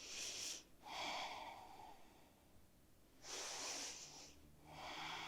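A person's slow, audible breathing in a yoga pose, faint and close to the microphone: two rounds of a breath in and a breath out, a couple of seconds apart.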